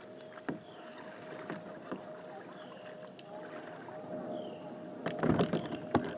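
A kayak being paddled on water, with splashes and short knocks, and a louder burst of splashing noise about five seconds in. A faint steady hum runs underneath.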